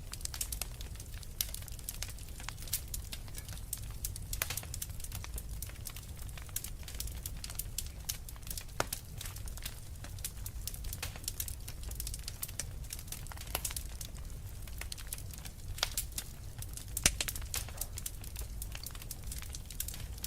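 Wood fire burning in a fireplace: irregular crackles and sharp pops from the burning logs over a low, steady rumble of the flames.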